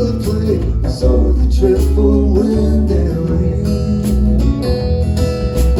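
Acoustic band playing a folk ballad: acoustic guitar strumming over a steady bass line, with a melody line above.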